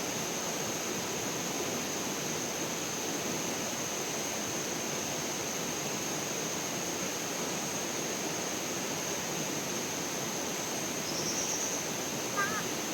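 Steady rushing of flowing water, with a thin, steady high-pitched tone above it and a few short chirps near the end.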